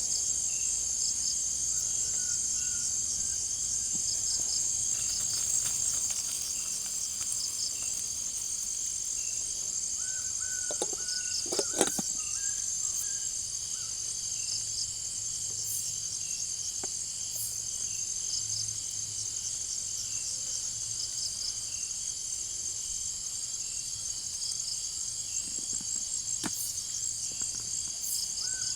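Tropical forest insect chorus, crickets and other insects: a steady high-pitched buzz with rows of quick chirps over it. A short animal call on one note repeats a few times. A few sharp clicks or snaps come just before the middle, one of them the loudest sound in the stretch.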